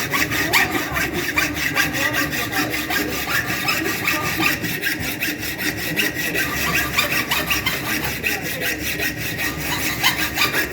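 Milling machine cutting a groove in a mild steel block: a steady cutting noise with rapid, even ticking throughout.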